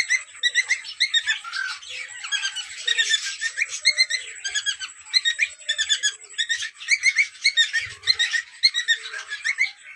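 Cream cockatiels chirping and whistling in quick, repeated short calls, overlapping almost without a break.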